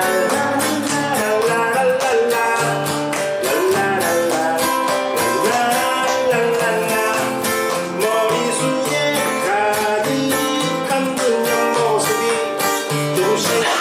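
Acoustic guitar strummed in a steady rhythm, with a melody line over it, playing an instrumental break in a Korean pop song.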